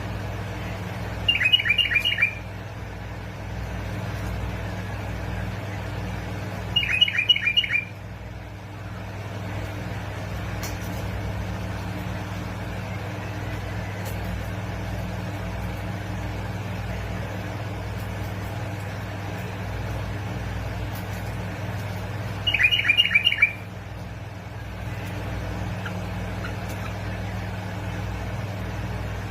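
Bulbul calling in three short bursts of quick, chattering notes, about a second each, near the start, around seven seconds in and again past twenty seconds, over a steady low hum.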